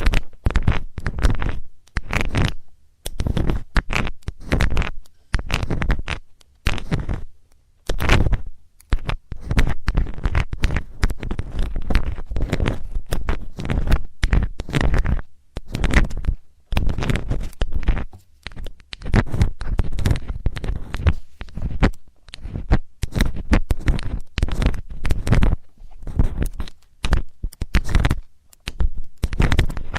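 Close-miked ear-cleaning scrapes: a metal tool scratching and rubbing against a microphone's ear in quick, irregular strokes with brief pauses, heavy with low rumble.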